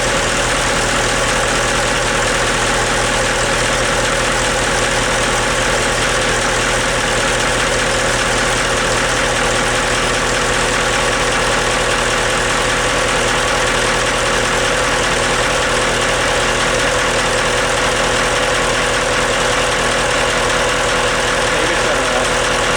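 Caterpillar marine diesel engine idling steadily and running smoothly, its starter solenoid newly replaced.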